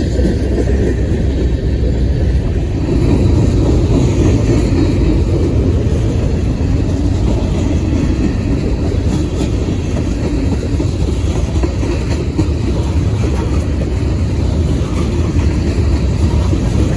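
Freight train passing close by: a steady loud rumble of cars rolling on the rails, a little louder from about three seconds in.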